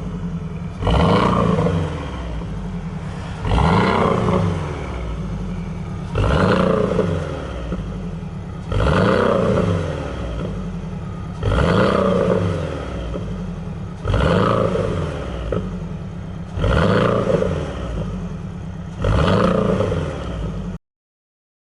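Porsche 718 Boxster 2.0's turbocharged flat-four, fitted with an aftermarket valved exhaust, revved eight times in a steady rhythm, about once every two and a half seconds. Each rev jumps up sharply and falls back to idle. The sound cuts off suddenly near the end.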